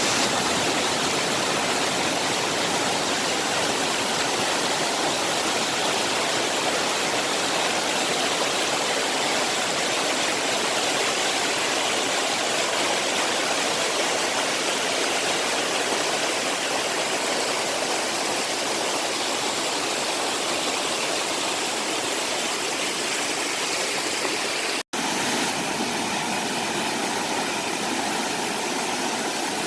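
Mountain stream water rushing steadily over rocks, a continuous even hiss. About 25 s in it cuts out for an instant and comes back slightly softer.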